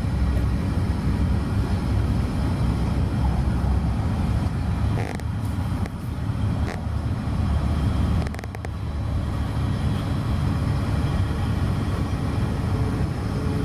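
Steady low rumble of road traffic, with a few short knocks around the middle.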